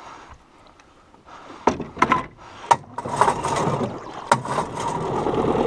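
1965 Evinrude Lightwin two-stroke outboard motor being pull-started with the choke out. A few sharp clacks come as the starter cord is yanked, then about halfway through the motor catches and keeps running, growing steadier toward the end.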